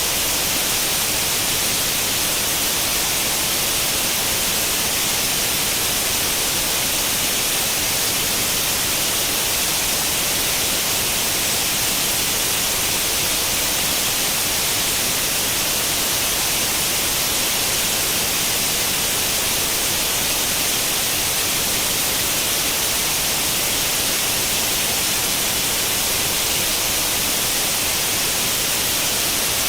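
Steady white-noise hiss like the static of an untuned tube television, even and unchanging, brightest in the high frequencies.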